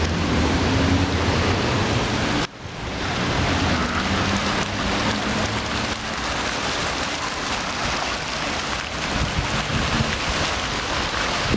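Man-made park waterfall cascading: a steady rush of falling water, with a sudden brief drop in level about two and a half seconds in before the rush returns.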